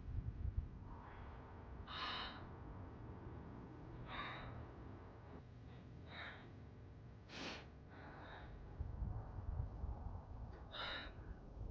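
A person breathing hard from the effort of climbing uphill: a heavy, audible breath about every two seconds, over a low rumble.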